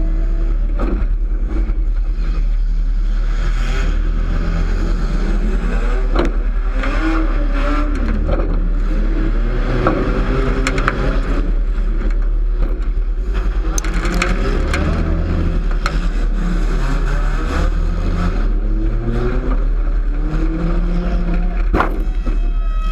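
Demolition derby cars' engines revving hard and falling back, under a constant deep rumble, with repeated sharp crashes and scrapes as the cars collide.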